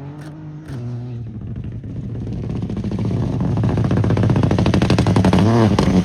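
A Peugeot 208 Rally4's turbocharged three-cylinder engine pulls hard under full throttle, its revs and volume climbing steadily, with a quick gear change near the end.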